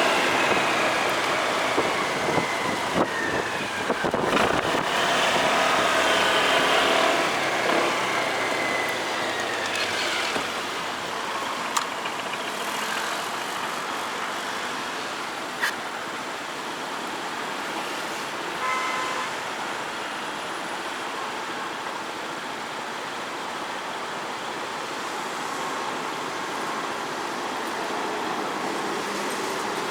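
Motorcycle riding in traffic. An engine note falls in pitch over the first several seconds, then a steady rush of wind and road noise continues, with a few brief clicks.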